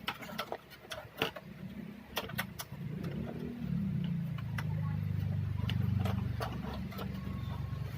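A few light clicks and knocks, then a low, wavering engine-like drone starts about three seconds in and swells.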